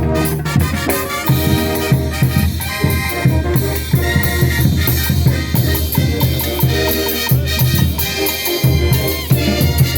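Band music with brass instruments and drums playing a steady beat.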